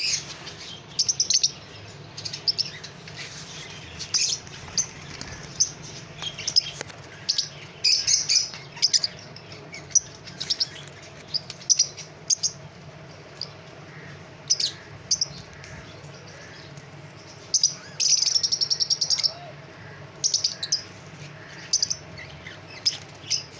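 Fischer's lovebirds chirping: short, high calls in irregular bursts, with a fast run of chattering calls about eighteen seconds in.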